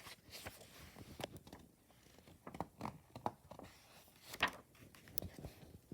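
Faint handling of a picture book: scattered soft taps and rustles, with a sharper click about four and a half seconds in.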